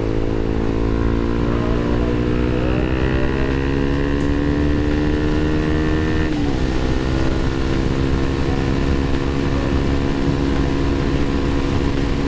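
Motorcycle engine pulling under acceleration, its pitch rising slowly for about six seconds, then dropping abruptly and holding nearly steady for the rest.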